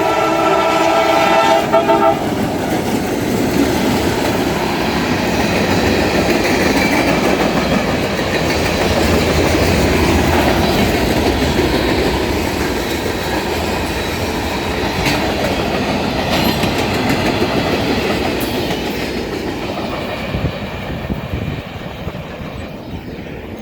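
CSX freight train's air horn sounding a chord of several tones that cuts off about two seconds in, then the train rolling past with wheels clattering over the rails, slowly fading near the end.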